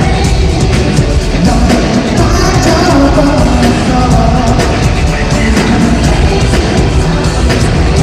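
Loud live concert music: a heavy, rock-style band track with singing, with steady, regular drum hits.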